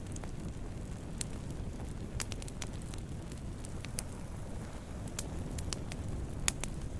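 Wood campfire burning with a steady low rumble and scattered sharp crackles and pops, the loudest pop about six and a half seconds in.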